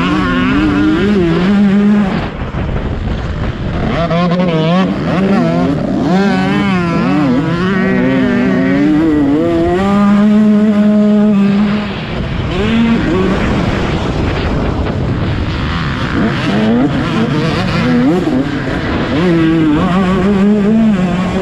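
Motocross bike engines revving hard, their pitch repeatedly rising and falling as the throttle is opened and closed.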